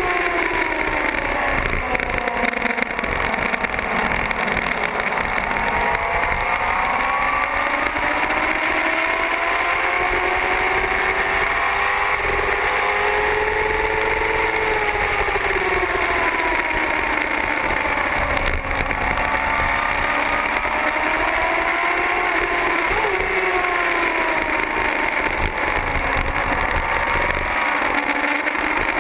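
Motorcycle engine under hard riding, its pitch climbing and falling again and again as it accelerates and slows, over a steady rush of wind noise.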